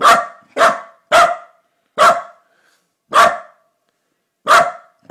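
Dog barking: six single barks, the first three in quick succession about half a second apart, then more spaced out.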